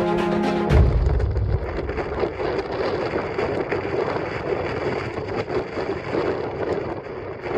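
A music cue ends under a second in, giving way to strong mountain wind buffeting the microphone in uneven gusts.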